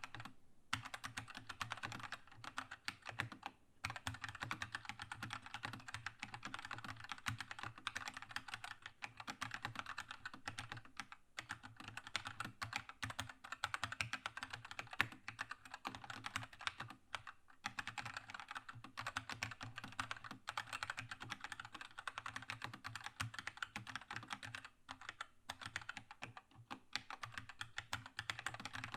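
Steady fast typing on a Keychron K2 mechanical keyboard with linear red switches: a dense run of key clacks with a few brief pauses.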